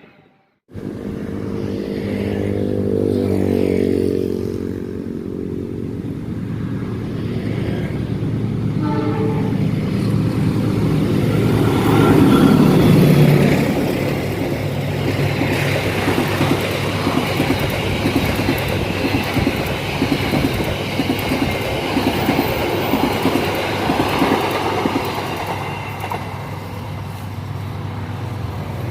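CC 206 diesel locomotive sounding its multi-tone horn for about four seconds over its running engine, then the train passing, loudest about twelve seconds in, with wheels clattering over the rail joints.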